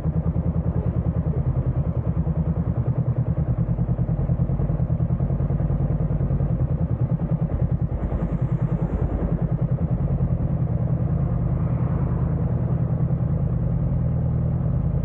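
Honda CBR500R's parallel-twin engine idling steadily with an even, fast pulse, the motorcycle standing still.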